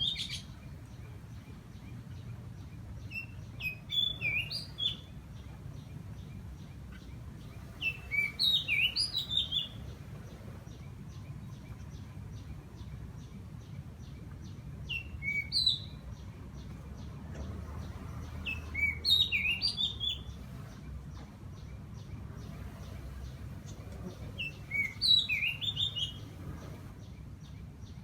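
A bird repeating a short, loud phrase of quick rising and falling whistled notes about every four to six seconds, over a fast, even high-pitched ticking and a low background rumble.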